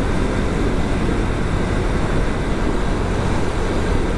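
Steady wind rush on an action camera's microphone on a moving motorcycle, with the bike's engine and road noise as a low hum underneath.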